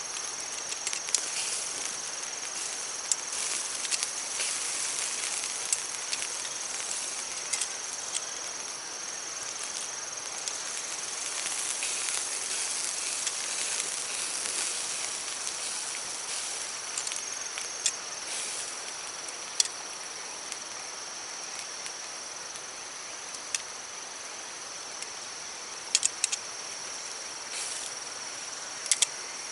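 Steady hissing with scattered sharp pops and crackles, as of meat sizzling on a hot stone over a wood fire, with a constant high-pitched insect trill behind it. A few louder pops come close together near the end.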